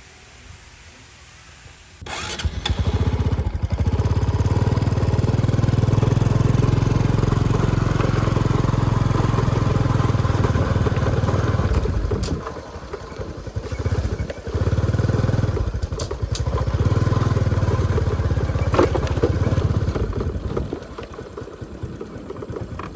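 Motorbike engine starting up suddenly about two seconds in, then running with a steady low rumble that dips twice in the middle, as if the throttle is eased, and eases off near the end.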